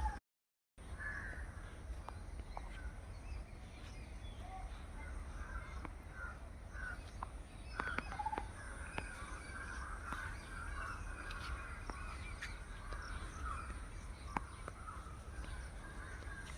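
Birds calling outdoors: many short, scattered calls with a few louder single calls standing out, over a steady low rumble. The sound drops out completely for a moment just after the start.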